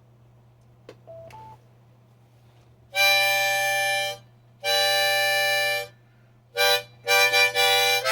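Harmonica playing an instrumental break: two long held chords, then a short one and a quick run of notes, after a quiet first three seconds.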